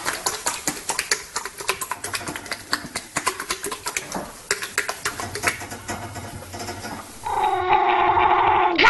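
An animal making a fast, irregular run of short sharp noises, then, after a cut about seven seconds in, a loud long held wail.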